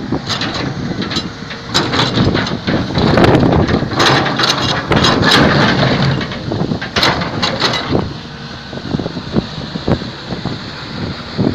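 Excavator at work: its diesel engine running under load, with irregular sharp clanks and crunching throughout.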